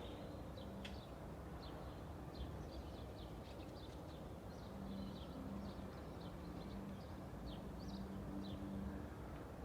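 Small birds chirping in short, repeated notes over a steady low rumble of distant traffic, with a faint steady low hum underneath.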